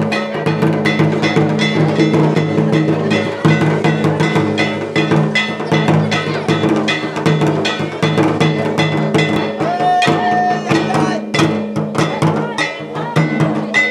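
Percussion music of drums and metallic strikes, played in a fast, steady rhythm, with one held high note about ten seconds in.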